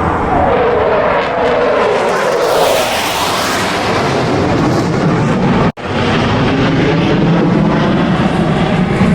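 Blue Angels F/A-18 Super Hornet jets flying past: a loud jet roar whose pitch falls steeply as a jet passes, then after a sudden break a little past halfway, more steady jet roar.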